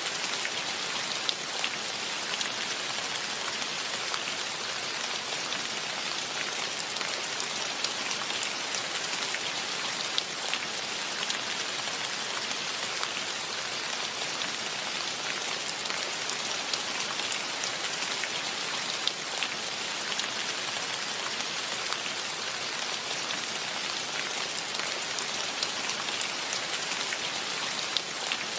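Steady rain falling, a constant hiss with many single drops ticking sharply here and there.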